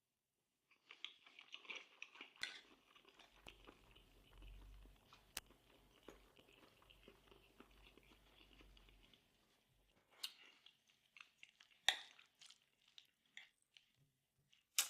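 Faint close-up chewing of a mouthful of ration beef and rice, with scattered small crackles and a few sharper clicks.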